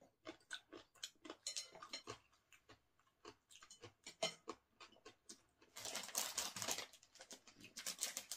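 Close-miked chewing of bread, a string of small wet mouth clicks. About six seconds in, a plastic bread bag crinkles for a couple of seconds as it is handled.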